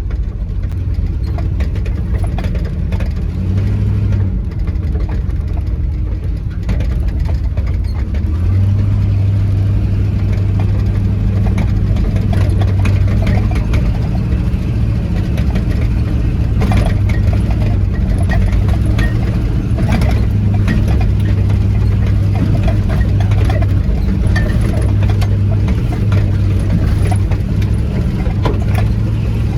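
1973 Chevy K20 four-wheel-drive pickup being driven off-road, its engine running with a steady low drone that gets stronger about eight seconds in. Scattered knocks and rattles from the body, including a rattly door.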